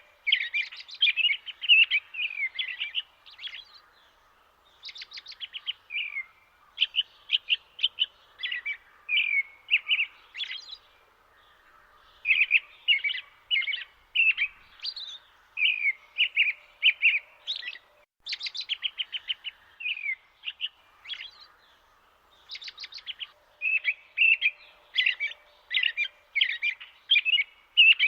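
Small birds chirping and twittering in quick, repeated bursts of short notes and trills, nearly continuous with brief pauses.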